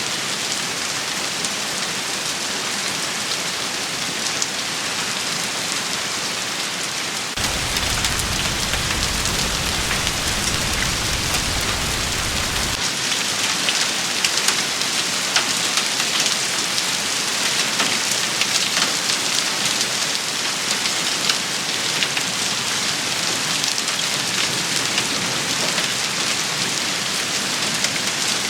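Steady heavy rain shower falling on a surface, with a continuous hiss and fine drop ticks. A low rumble sits underneath for about five seconds, starting about seven seconds in.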